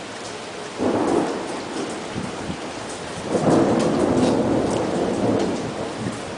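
Steady rain with two rolls of thunder from a severe thunderstorm: a short one about a second in and a longer one that swells around three seconds in and fades out over the next two or three seconds.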